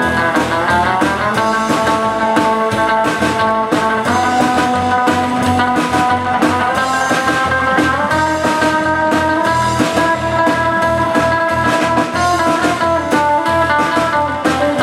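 Rockabilly band music: electric guitar over a drum kit's steady beat, with a guitar note sliding up about a second in.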